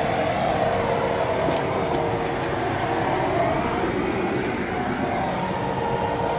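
Heavy diesel equipment running steadily: a continuous engine drone with a steady hum.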